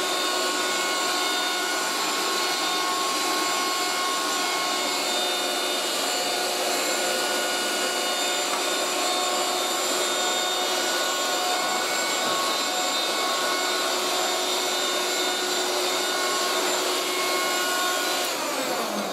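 1980s Moulinex 237/320 handheld vacuum cleaner running steadily, a hissing whine with many high tones. Near the end its motor winds down, the whine falling in pitch and fading.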